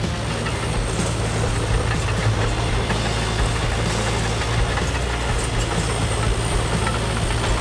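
RC construction models running: a steady, engine-like low hum with faint clicks over it, as from an RC excavator's and dump truck's engine-sound and drive.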